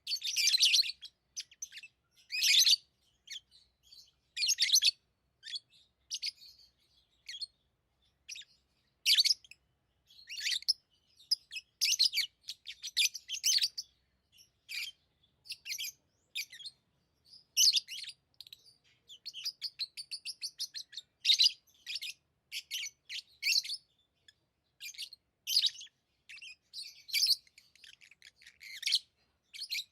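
Lovebirds chirping: sharp, high chirps in irregular runs every second or so, with a stretch of rapid chattering about two-thirds of the way through.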